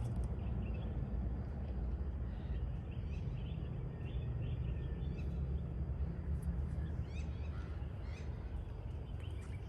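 Birds chirping and calling in short, scattered notes over a low steady rumble.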